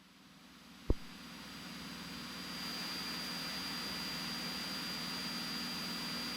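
Cessna 182T cabin drone from its six-cylinder Lycoming engine and propeller in the climb. It rises in level over the first few seconds, then holds steady with a thin high whine. A single click sounds about a second in.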